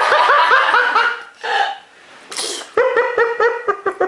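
High-pitched laughter in quick repeated 'ha' syllables, in two bursts: one in the first second and another starting just under three seconds in, with a short breathy burst between them.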